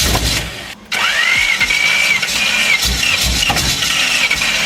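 An engine being started: after a brief break, a whine rises and holds steady, with the engine's low, pulsing running underneath.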